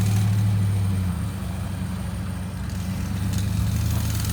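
An engine running steadily at idle, a low even hum that drops slightly in pitch about a second in.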